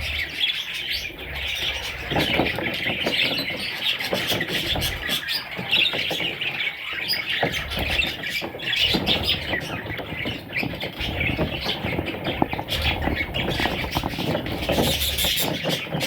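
Small parrots chirping and chattering continuously: a dense run of short chirps and clicks.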